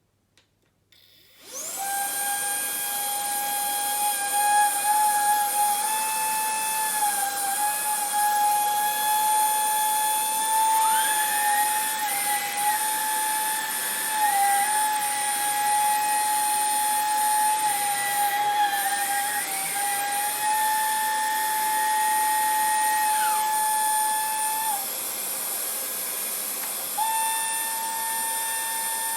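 Vax Blade 4 cordless stick vacuum running: it starts about a second in and gives a steady high-pitched whine over a hiss. The whine briefly drops out near the end and then comes back.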